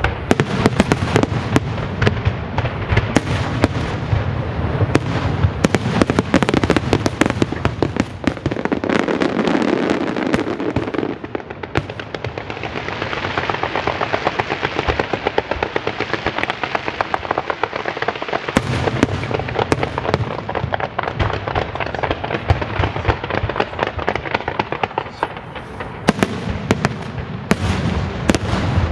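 A fireworks display: a dense, rapid barrage of shell bursts and crackle. In the middle, a crackling hiss takes over for several seconds with fewer deep booms, then the heavier bangs return.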